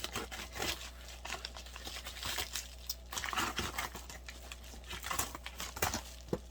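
Plastic or paper packaging being crinkled and torn open by hand in a series of irregular rustles.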